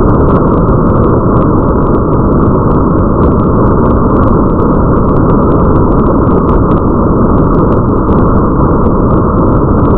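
Steady, heavy rain ambience, muffled and dull with a deep rumble underneath, and faint scattered droplet ticks above it. It does not change for the whole stretch.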